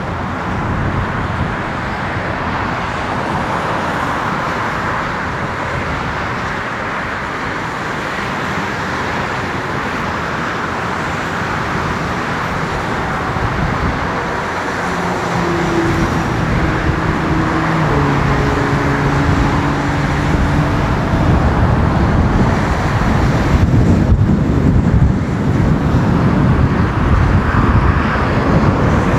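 Jet engine noise from a Lufthansa Airbus A340-300's four CFM56 turbofans: a steady rumbling roar that grows louder over the last third.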